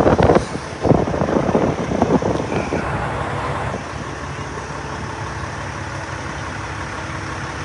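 Road traffic and vehicle engines running, a steady rumble and hiss, with a few sharp bumps in the first second or so.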